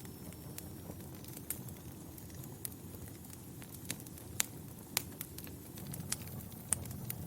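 Wood fire burning in a fireplace: a steady low rumble with irregular sharp crackles and pops, a few louder snaps in the second half.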